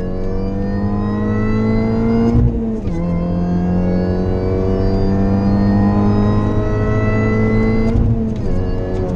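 Mini Cooper S R53's supercharged 1.6-litre four-cylinder under hard acceleration, heard from inside the cabin: the revs climb, drop with an upshift about two and a half seconds in, then climb steadily again for about five seconds before falling away near the end.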